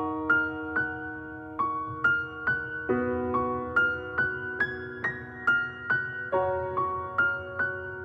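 Background music: slow solo piano, one note about every half second over held chords that change every few seconds.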